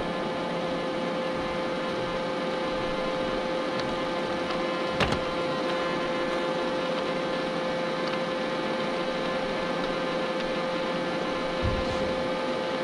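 Robot vacuum cleaner running with a steady motor whine and hiss, with a sharp knock about five seconds in and a softer bump near the end.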